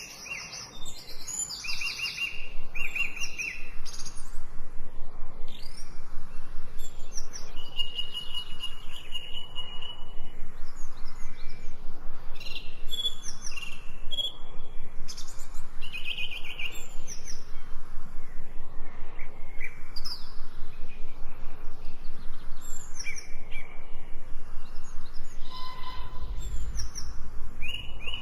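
Several birds chirping and calling, with short whistled notes and trills, over a steady outdoor background that pulses rapidly and evenly from about four seconds in.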